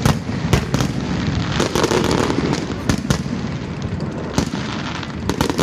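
Fireworks display: a rapid run of sharp bangs and pops from bursting shells over a constant rumble of explosions and their echoes, heaviest about two seconds in.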